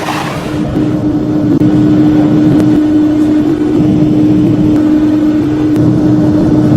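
N-gauge model train running along the track: a steady motor hum at one pitch over a dense low rumble of wheels on rail.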